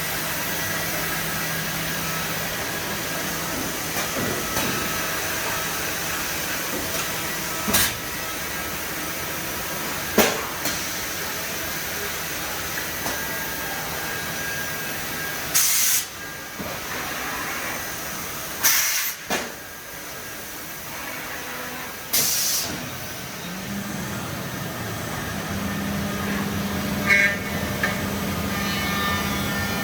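HOMAG Optimat BAZ 211 CNC machining centre running with a steady mechanical noise, broken by five short hisses of air. A steady motor tone comes in near the end.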